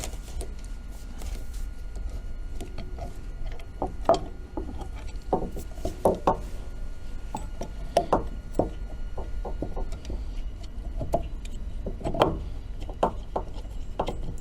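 Irregular clicks, taps and light scraping of hand tools and small metal fittings being handled while hydraulic lines are connected to an outboard power trim unit, over a low steady hum.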